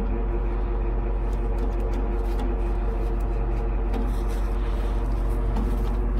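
Flatbed tow truck's engine running steadily, driving the winch that pulls an old truck slowly up onto the deck.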